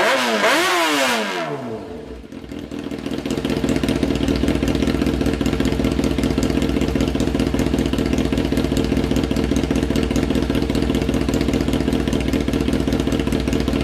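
600cc superbike fitted with a replica aftermarket exhaust, revved once at the start, the revs falling away within about two seconds, then idling steadily and loudly.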